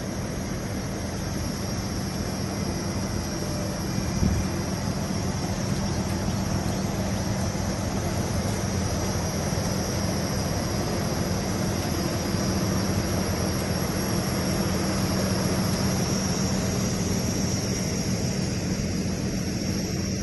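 Steady drone of a car's engine and road noise heard from inside the cabin, with a constant low hum and a single thump about four seconds in.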